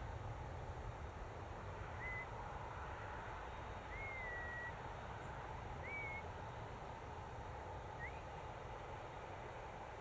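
A bird calling outdoors, a short chirp that sweeps upward about every two seconds, over a steady low rumble.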